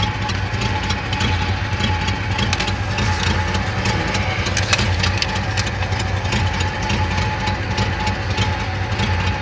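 Chevrolet Monte Carlo's engine idling steadily on its first run of the spring, still warming up, with many light irregular ticks over the low steady hum.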